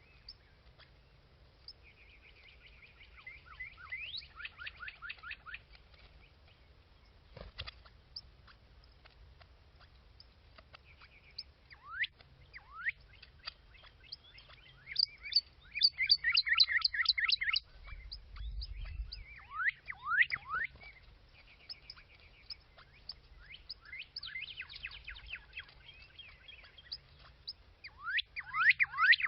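Small birds chirping and calling: bursts of rapid chirps, short trills and quick rising and falling whistled notes, with the densest, loudest burst about halfway through.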